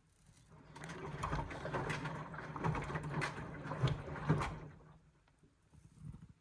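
Indesit washing machine's drum turning in a wash tumble for about four seconds, with a low motor hum under an uneven swishing and clatter of the wet load, then stopping.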